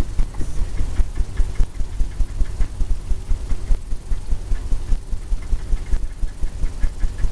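A blender brush tapped repeatedly against a stretched canvas on an easel, giving rapid, uneven low thumps, several a second. The tapping blends the wet oil paint and softens the brush strokes.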